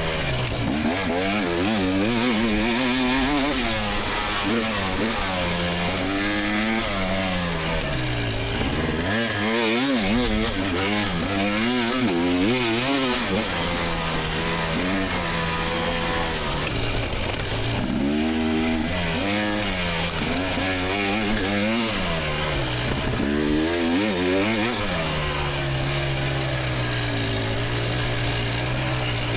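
Single-cylinder two-stroke engine of a 2024 GasGas EX300 dirt bike, revving up and dropping back over and over as the throttle is worked on and off around a race course. It settles into a steadier, lower note for the last few seconds.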